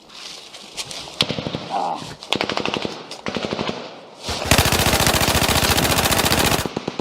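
Battle gunfire: scattered distant shots and short bursts of automatic fire, then, about four and a half seconds in, a long loud burst of rapid machine-gun fire lasting a little over two seconds.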